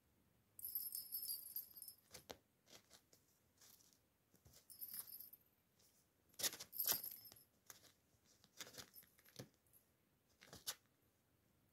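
A small bell jingling in short bursts, about three times, among soft rustling and light clicks as kittens play with a toy or cat tunnel.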